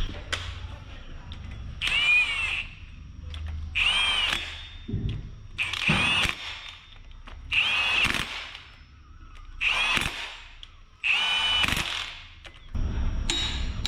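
Power impact gun (air or cordless impact wrench) run in six short bursts about two seconds apart, each spinning up and winding back down in pitch, as it works fasteners on an engine.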